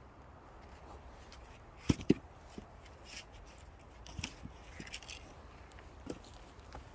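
Axe splitting firewood: two sharp knocks close together about two seconds in, followed by a few lighter knocks and clatters of wood.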